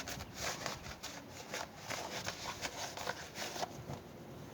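Irregular rubbing and light clicks as an electric fan's parts are handled and cleaned by hand.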